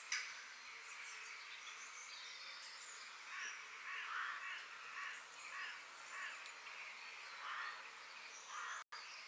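Wild birds calling over a steady outdoor hiss: a run of harsh, repeated calls with thin high chirps above them. The sound cuts out for an instant near the end.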